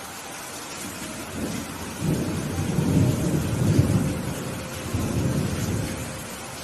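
Thunder rumbling over steady rain. The deep rumble builds about a second and a half in, is loudest around three to four seconds, then rolls away, while the rain hiss carries on beneath it.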